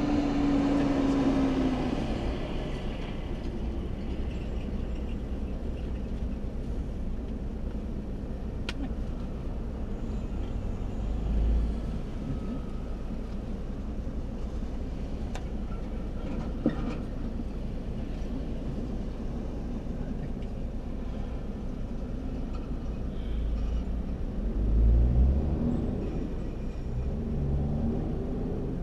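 Steady low rumble of a vehicle, with a few sharp clicks in the middle and a brief pitched swell a few seconds before the end.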